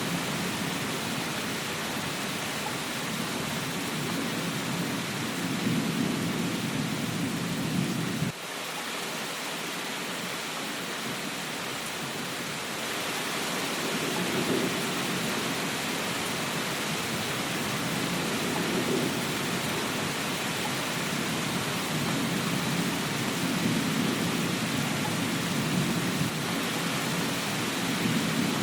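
Steady rain hiss with a low rumble underneath that swells and fades every few seconds. The rumble drops away abruptly about eight seconds in and slowly returns.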